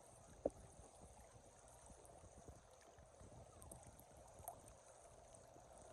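Near silence: faint outdoor ambience, with a single short click about half a second in.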